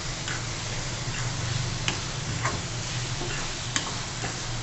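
Onion-tomato masala sizzling in a pan as it is stirred and sautéed, with a few sharp clicks of the spatula against the pan.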